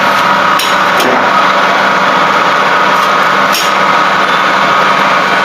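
A small engine or motor running steadily, with three short sharp clicks over it, the last about three and a half seconds in.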